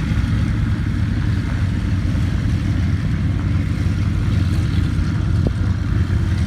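Aircraft engine running steadily with a low drone, with a single click about five and a half seconds in.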